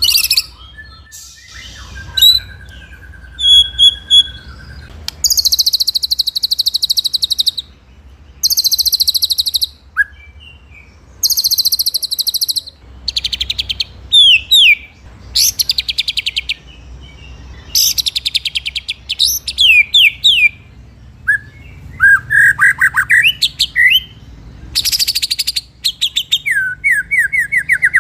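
White-rumped shama (murai batu) singing: repeated bursts of fast, high rolling trills, each one to three seconds long, broken up by sharp downward-sliding whistled notes.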